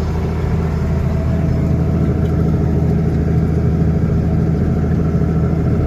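Tractor engine running at a steady speed with an even hum that does not change.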